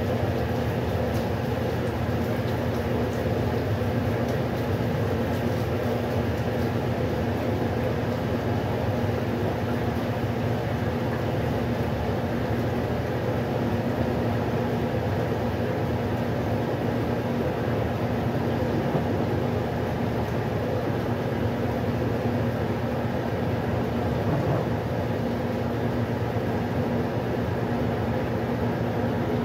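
Westinghouse washing machine running steadily, an even mechanical noise with a constant motor hum.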